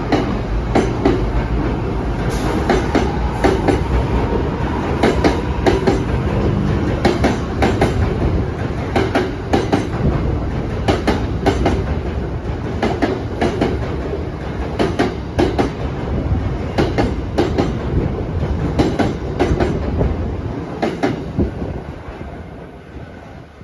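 NJ Transit Arrow III electric multiple-unit train departing, its cars rolling past with a steady rumble and repeated wheel clacks over rail joints. The sound fades near the end as the rear car pulls away.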